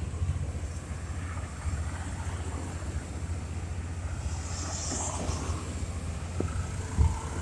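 Wind buffeting the microphone with a steady low rumble over city street noise, with a short hiss about five seconds in and a couple of thumps near the end.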